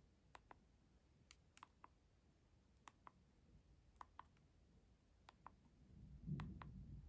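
Faint, sharp clicks and taps made close to the microphone, scattered and often in pairs about a quarter second apart. About six seconds in there is a brief, soft, low rumble of handling.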